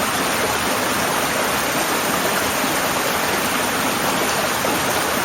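Small rainforest brook babbling over stones: a steady, even rush of running water.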